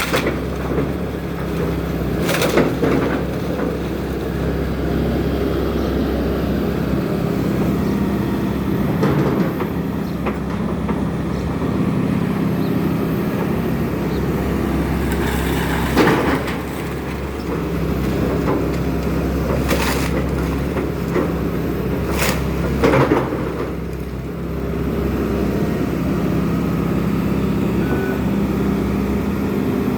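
Excavator's diesel engine running steadily through house demolition, with sharp cracks and crashes of breaking debris about half a dozen times.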